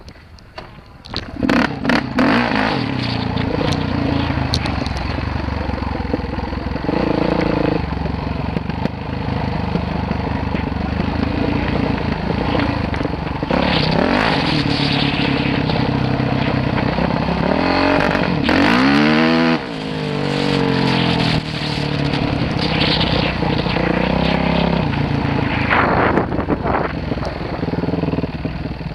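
Dirt bike engine being ridden, revving up and down through its gears; it starts about a second in, with a sharp rise and fall in pitch about two-thirds of the way through.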